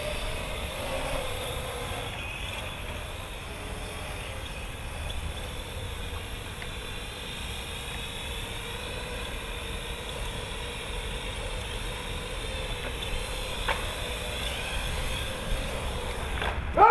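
Parrot AR.Drone quadcopter's four electric motors and propellers whining steadily as it hovers, the pitch wavering slightly, with wind rumbling on the microphone.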